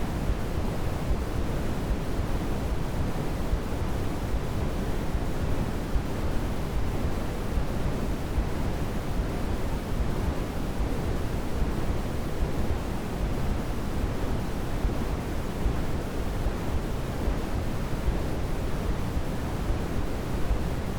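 Steady white noise used as a baby sleep aid: an even, unbroken hiss weighted toward the deep end, with no change in level.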